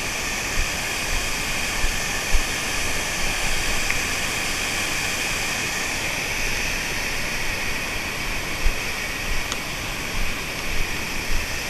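Waterfall rushing steadily, a constant even roar of falling water, with a few brief low bumps on the microphone.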